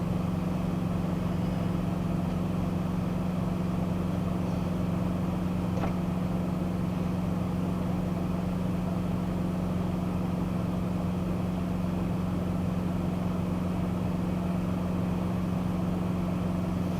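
Box truck's engine and drivetrain giving a steady, even drone heard inside the cab, at a constant speed and with no change in pitch.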